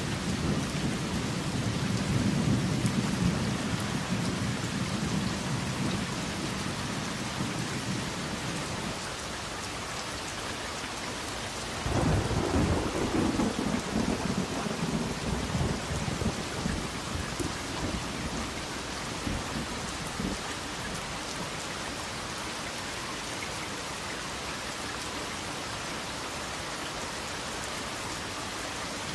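Thunderstorm: steady rain throughout, with thunder rumbling low at first and fading. About twelve seconds in comes a sudden thunderclap, which rolls away over several seconds.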